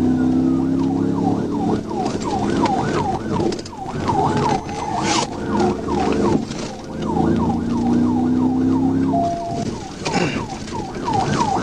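Police car siren in a fast yelp, sweeping up and down about three times a second, with the cruiser's engine running hard beneath it and swelling twice.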